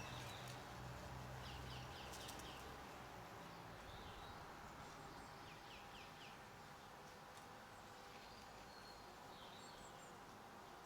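Faint garden birdsong: small birds giving short chirps and clusters of quick falling notes over a steady background hiss and a faint low hum.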